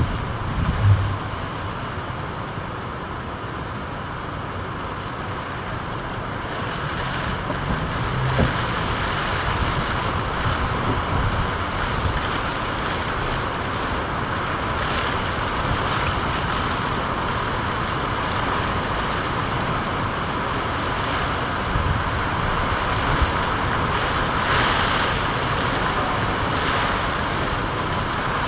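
Steady heavy rainfall, a dense even hiss, with a brief low thump about a second in and another around eight seconds.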